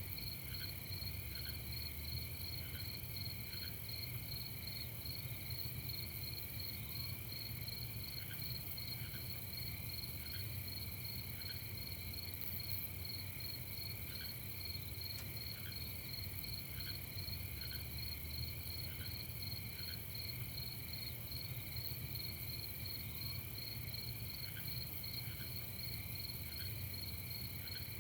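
Crickets chirping in a steady, dense night chorus, with a few fainter separate chirps in between and a low hum underneath.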